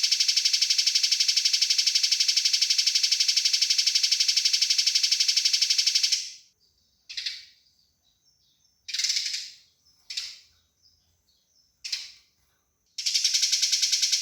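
Eurasian tree sparrows giving their fighting chatter: a fast, continuous rattle of high chirps for about six seconds, then four short single calls with pauses between, and the rapid rattle starting again near the end.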